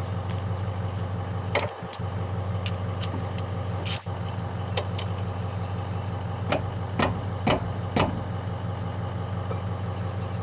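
Steady low mechanical hum like an idling engine, with sharp metal clicks and knocks from handling brake caliper slide pins and parts. Near the end come four clicks about half a second apart.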